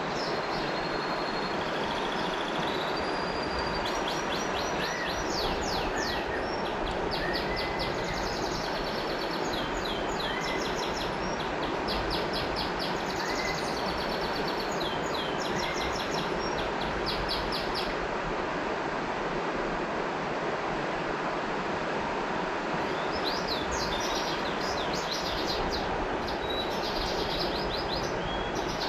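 River water flowing steadily, with birds singing over it. Rapid high trills sound through most of the first two-thirds and return near the end, and a few short rising chirps come early on.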